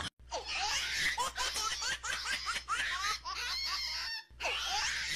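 Laughter in quick, short bursts that rise in pitch. It cuts out briefly about four seconds in, then starts again.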